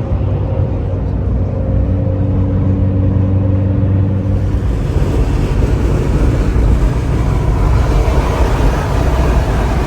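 Road vehicle noise: a steady low engine hum, then a broader rush of engine and tyre noise swelling from about four seconds in, as of a truck going by.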